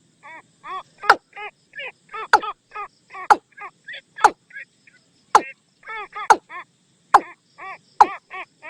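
Watercock calling as a decoy lure call: a steady series of short, arched, hollow notes, about two or three a second, with a sharp click roughly once a second.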